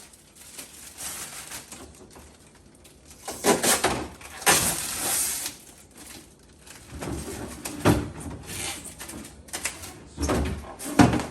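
Packing plastic and tape being pulled and torn off a new refrigerator: a couple of rustling, ripping bursts a few seconds in, then handling clicks and knocks against the fridge's fittings, two of them sharp.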